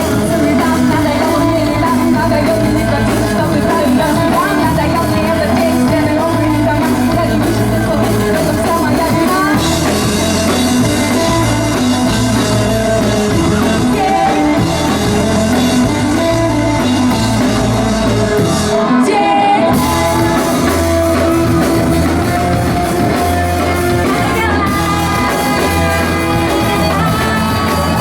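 Live rock band playing a song with a singer. The band cuts out for about a second around nineteen seconds in, then comes back in.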